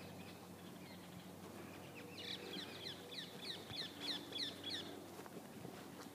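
A bird calling: a quick run of about ten short, high, down-slurred notes, starting about two seconds in and stopping about five seconds in, over a faint steady hum.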